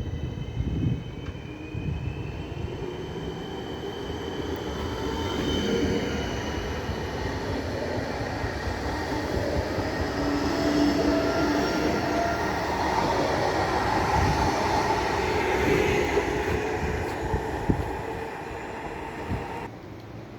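Passenger train running along the tracks, growing louder and then easing off. High tones slowly drift in pitch over the rumble, as the wheels squeal on the rails. The sound cuts off suddenly near the end.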